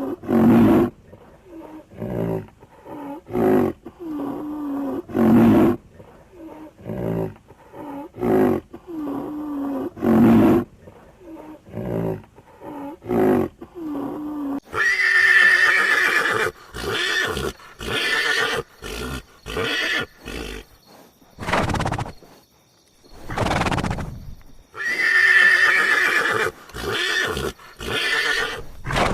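Horse neighing: a run of short repeated calls, then from about halfway longer, higher whinnies.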